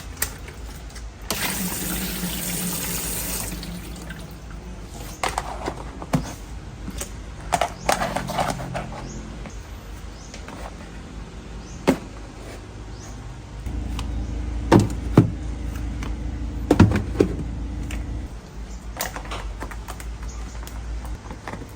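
Water running from a kitchen tap into a sink in spells, a loud rush near the start and a lower, steadier run later, with scattered knocks and clatter of things being handled and washed.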